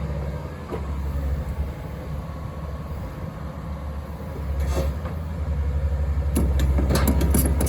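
Terex TC125 hydraulic excavator's diesel engine running with a steady low rumble. About six and a half seconds in, metallic clanks and rattles begin and grow louder.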